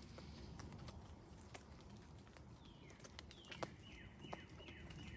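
A bird calling in a quick series of short falling notes, starting about halfway in, over a quiet outdoor background with a few faint clicks and taps.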